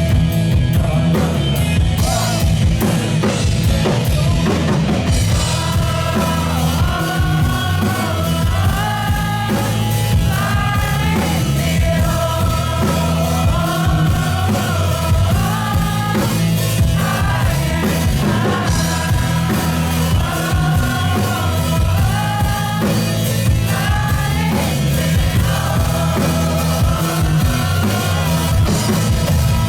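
Live rock band playing on stage: drum kit, bass and guitars, with a male lead vocal singing a wavering melody that comes in about six seconds in.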